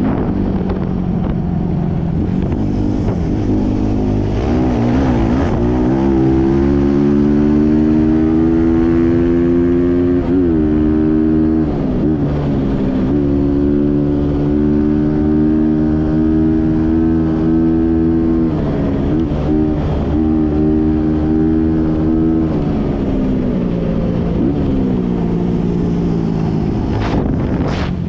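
Trail motorbike engine running while riding, holding steady revs with brief dips and rises in pitch several times as the throttle is eased and reopened.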